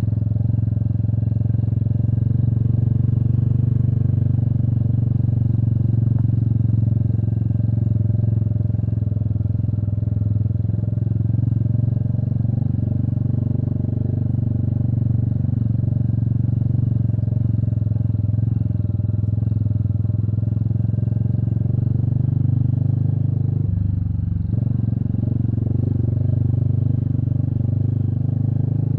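Royal Enfield Meteor 350's single-cylinder engine running steadily while the motorcycle is ridden at an even pace. The engine note shifts briefly a little past two-thirds of the way through.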